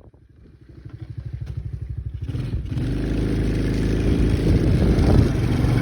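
Tao Tao 125cc ATV's small single-cylinder four-stroke engine. It starts with a low, even putter, builds steadily in loudness over the first two seconds or so as the quad pulls away, then runs loud and steady under throttle.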